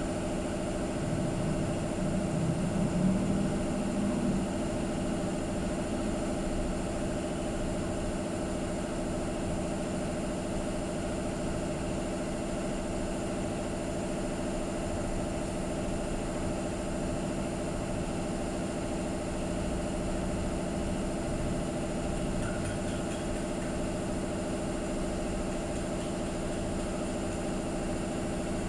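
A motor running steadily with an even hum that does not change in pitch or level.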